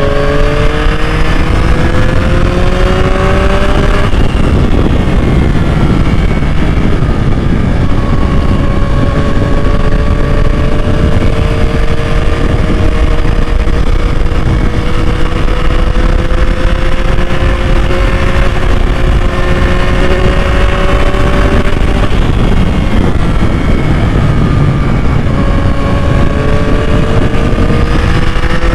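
2021 Yamaha MT-09's inline three-cylinder engine pulling steadily under load, its pitch climbing slowly. The revs drop about four seconds in and again around twenty-two seconds in, then climb again, over a dense rush of wind and road noise.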